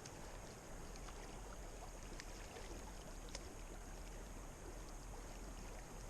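Open river water running past the ice, a faint steady rush with a couple of small ticks about two and three seconds in.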